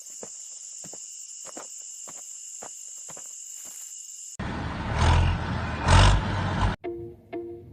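Steady high insect chirring with soft, irregular knocks about twice a second. About four seconds in, this cuts abruptly to a loud rumbling noise that swells twice. Near the end it cuts to plucked-string music.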